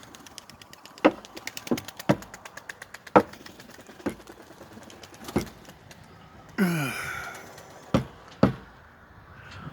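Scattered knocks and thumps, about eight of them, in a wooden pigeon loft, with a short creak falling in pitch about two-thirds of the way through.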